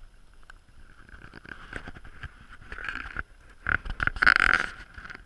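Campfire burning, with scattered crackles and pops; a louder burst of rushing noise about four seconds in.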